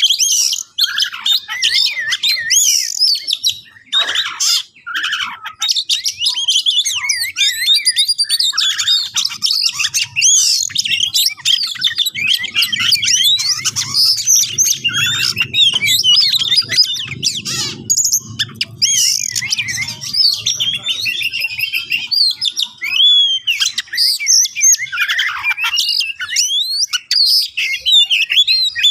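Oriental magpie-robin singing a loud, fast, unbroken song of varied whistles, chirps and rapid up-and-down notes. It is the bird's agitated, aggressive full song, the kind used to provoke rival magpie-robins.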